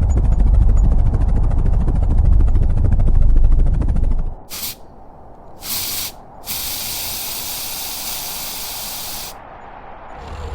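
A deep, loud rumble for about the first four seconds, then a spray can hissing: two short bursts, then one long spray of about three seconds, as cleansing spray goes onto the bear's wounds.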